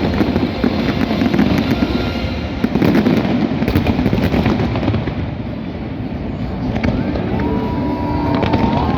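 A dense barrage of fireworks going off: continuous low booms and crackling bursts overlapping one another. A thin, wavering whistle comes in near the end.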